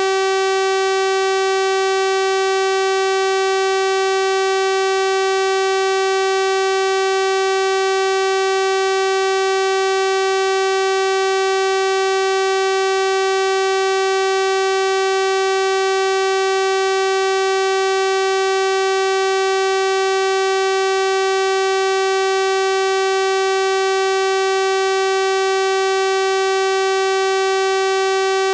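Synthesized 384 Hz sawtooth-wave test tone, held at one steady pitch and level with a buzzy stack of overtones.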